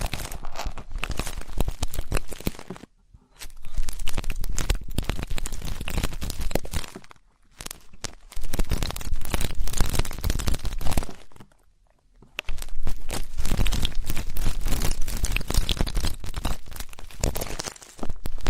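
Ear-cleaning ASMR: an ear-cleaning tool scratching and rubbing right at the microphone, a dense crackly scraping that stops briefly three times.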